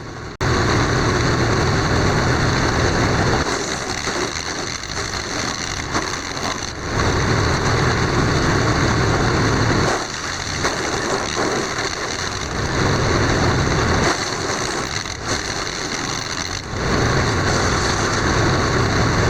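Jansen GTS 1500E wood chipper with its 15-horsepower engine running and chipping branches, a steady machine noise with a high whine that swells louder and falls back every few seconds.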